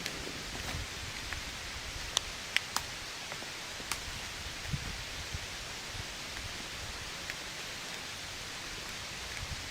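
Steady hiss of rainfall in a forest, with a few sharp ticks scattered through it, most of them in the first half.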